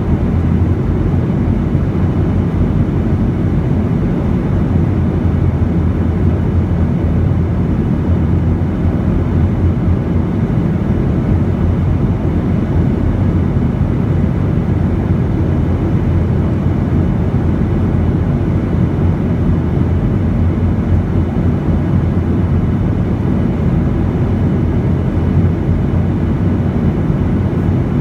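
Boeing 737 cabin noise in flight: a steady, low engine and airflow noise that does not change.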